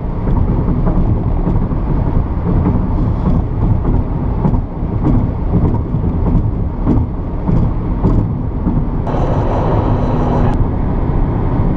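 Steady low rumble of a moving vehicle, with scattered knocks. A steady hum joins in for about a second and a half near the end.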